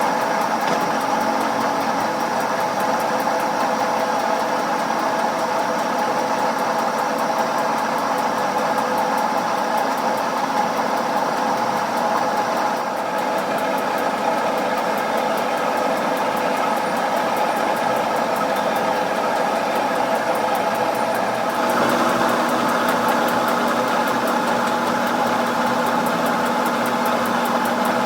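A machine's motor running steadily with a constant hum. About 22 seconds in, the sound changes and a lower steady hum joins it.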